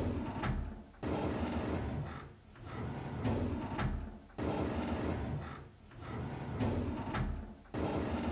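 A drawer sliding open over and over, a rolling scrape that comes back about every three and a half seconds, three times starting with a sudden jolt.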